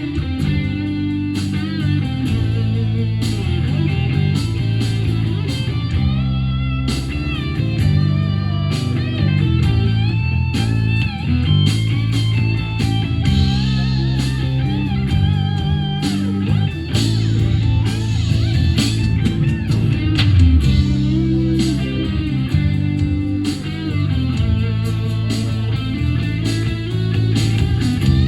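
Rock band playing an instrumental break: an electric guitar solo with bending, wavering notes over bass and drums.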